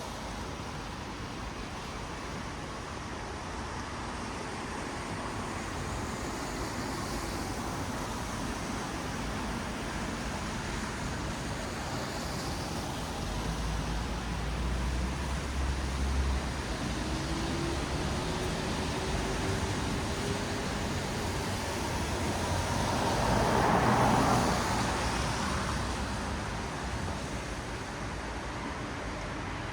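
Road traffic on a wet city street: a steady hiss of tyres on wet asphalt with a low engine rumble. About two thirds through, an engine note rises slowly, and a vehicle then passes close, its hiss swelling and fading.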